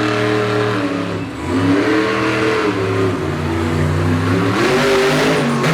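Bigfoot monster truck's engine revving hard, its pitch rising and falling several times as the throttle is worked.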